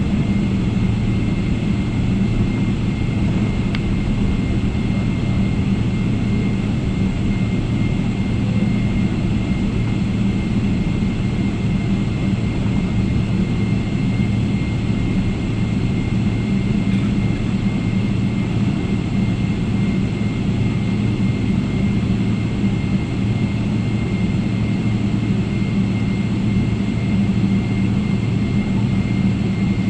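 Steady jet-engine and airflow noise heard inside a Boeing 777 airliner cabin, a deep even rumble with a thin high whine above it.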